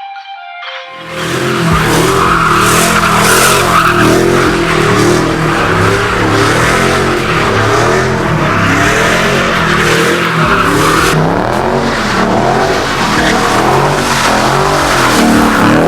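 A car's engine revving hard, its pitch rising and falling over and over, with tires squealing continuously, as in drifting or donuts; this starts about a second in, right after a short bit of mallet-like music ends.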